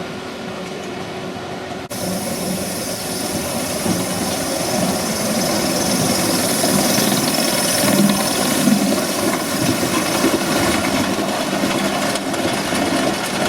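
Steady hiss and running noise of a G-scale live steam locomotive. About two seconds in the sound changes abruptly, and a strong hiss takes over.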